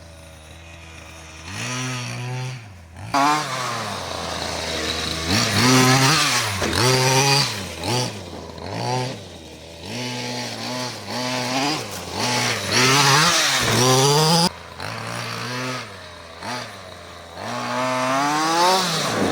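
Redcat Rampage MT's 32cc two-stroke engine idling low. After about a second and a half it revs up and back down again and again, about a dozen times, as the throttle is opened and released.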